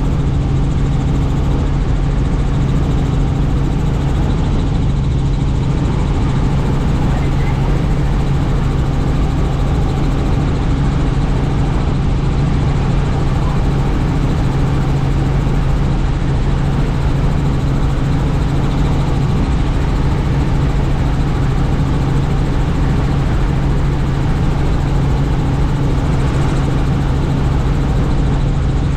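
Helicopter in flight heard from on board: steady, loud rotor and engine noise with an unchanging low hum.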